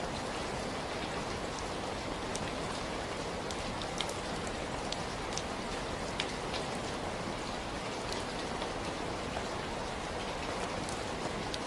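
Steady rainfall: an even wash of rain with the sharp ticks of individual drops landing on a hard surface scattered through it.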